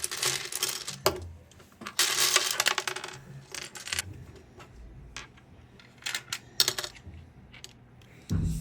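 Small hard objects clattering and rattling in several bursts, about a second long each, like pieces being rummaged or dropped into a container.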